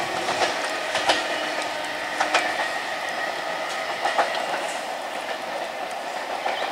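Electric multiple unit (EMU) local train running on the line, a steady rumble with irregular sharp clicks of wheels over rail joints, slowly fading.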